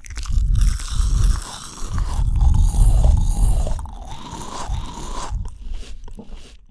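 Close-miked eating of fresh fruit: a bite at the start, then crisp, wet crunching and chewing that eases off about five seconds in.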